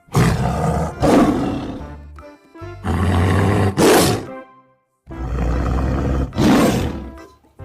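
Tiger roar sound effect: three long roars in a row, each about two seconds, swelling to a peak and then fading.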